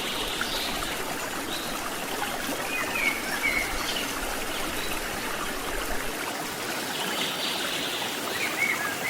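Stream water rushing steadily, with a few short high chirps over it.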